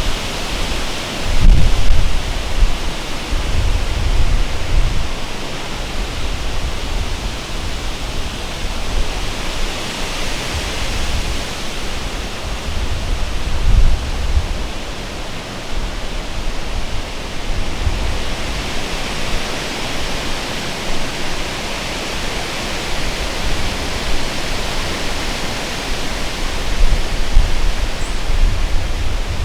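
Strong gusting wind of about 25 miles an hour rushing through the trees, swelling and easing, with low rumbling buffets on the microphone.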